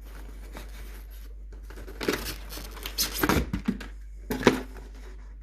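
Packaging being torn open and crinkled by hand, in three short bursts of tearing and rustling in the second half.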